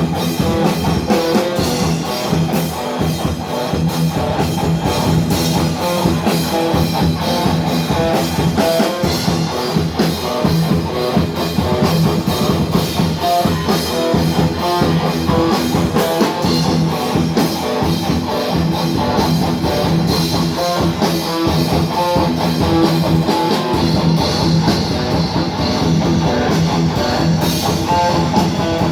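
Thrash metal band playing live: distorted electric guitars over a drum kit with rapid, steady hits, loud and continuous.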